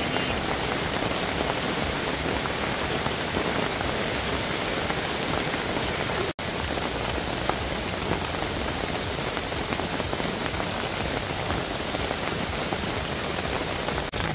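Steady downpour of rain falling on wet ground and puddles, breaking off for an instant about six seconds in.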